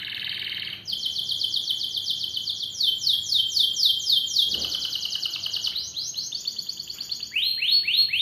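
Domestic canary singing a continuous song of rapid trills: runs of quick, repeated downward-sweeping notes, the pattern and speed changing every second or two, opening with a fast buzzy trill.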